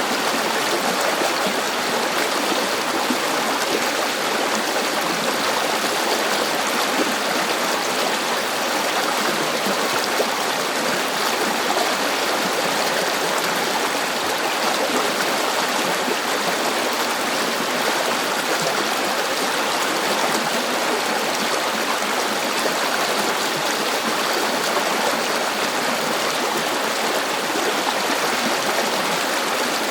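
A river or stream flowing steadily over rocks, its rushing and babbling running on evenly without a break.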